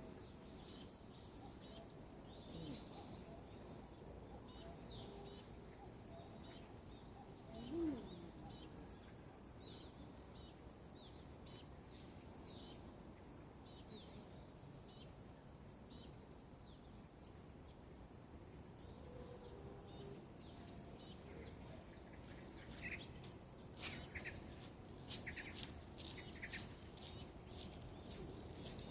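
Small birds chirping faintly in the morning, many short calls, with one louder, lower-pitched sound about eight seconds in. A run of sharp clicks starts near the end.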